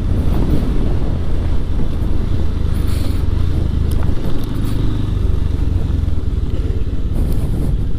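Motorcycle engine running steadily with a low rumble while riding.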